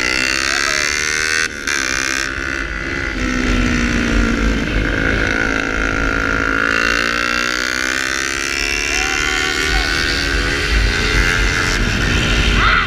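Small Kawasaki Ninja's twin-cylinder engine running through a straight-pipe sport exhaust while riding. The engine note sinks through the middle and climbs again as the revs change, over a rumble of wind on the microphone.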